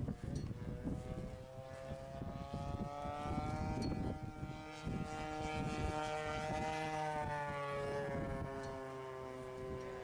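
Radio-controlled model warbird's engine and propeller droning in flight. The pitch climbs slowly, then drops after about seven seconds as the plane passes by.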